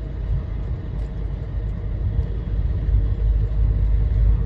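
Steady low engine and road rumble inside the cab of a moving truck on the highway.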